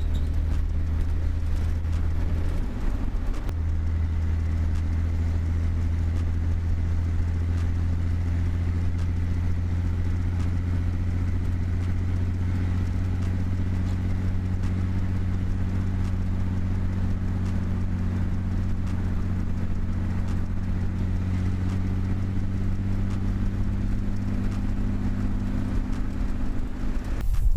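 Fuel-injected Chevrolet 4.3 V6 from an S10 running through straight pipes, a steady low engine note as the truck drives, with a brief change in pitch about three seconds in.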